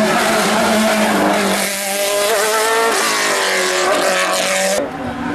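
Race car engine running hard, its note shifting in steps a few times as it changes gear.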